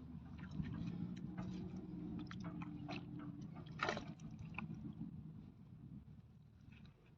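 Hands digging in wet riverbank mud, with scattered squelching clicks and crackles and one sharper knock about four seconds in. A low steady hum runs underneath and fades out about halfway through.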